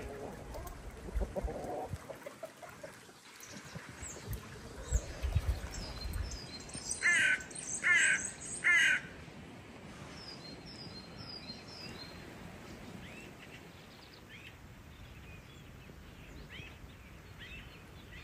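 A large bird calls three times, harsh calls about a second apart, followed by faint chirps of small birds.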